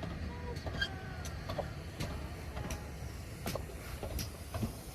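GWR Castle-class steam locomotive Pendennis Castle running by, a low rumble broken by irregular clanks and clicks.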